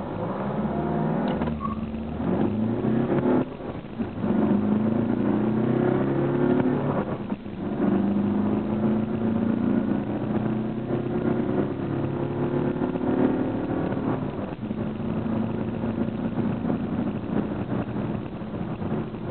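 Mercedes-Benz C 200 CDI four-cylinder turbodiesel accelerating hard from a standstill to 100 km/h. The engine note climbs in pitch in each gear and drops briefly at three upshifts, about three and a half, seven and a half and fourteen and a half seconds in.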